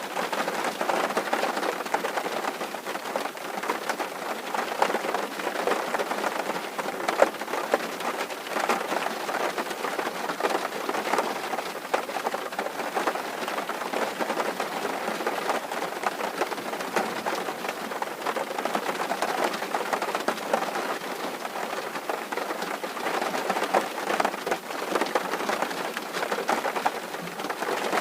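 Steady rain on a tin roof: a dense, even patter of drops on the metal sheeting, with a few louder single drops standing out now and then.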